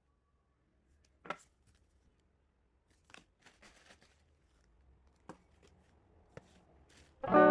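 A few isolated small taps and clicks of objects being handled, with faint rustling between them; the loudest tap comes about a second in. Guitar music starts just before the end.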